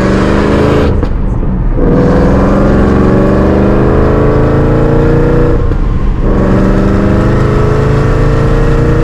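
A car accelerating hard through the gears: the engine note climbs steadily, drops at a gear change about a second in and again about six seconds in, then climbs again.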